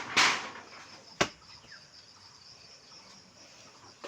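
Steady chorus of crickets or other insects chirring. Just after the start comes a loud noisy burst that fades within half a second, and about a second in a single sharp crack.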